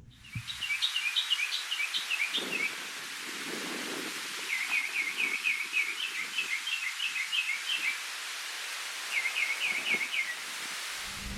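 A songbird singing in three phrases of quick, repeated chirps: one near the start, a longer one in the middle and a short one near the end. A steady hiss of outdoor ambience runs beneath it.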